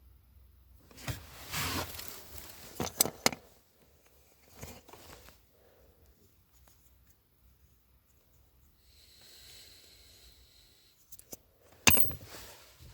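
Clicks, knocks and scraping of small plastic parts being handled, as a VW Golf 5 flap positioning motor is worked apart by hand, with a single sharp click near the end.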